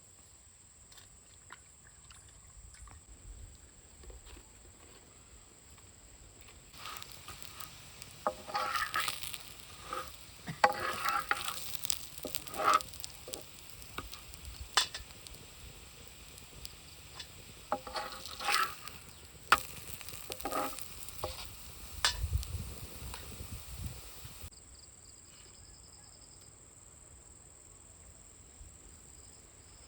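Ragi adai cooking on a hot pan: a sizzling hiss with short sharper scrapes and clicks coming and going. It starts a few seconds in and stops abruptly several seconds before the end.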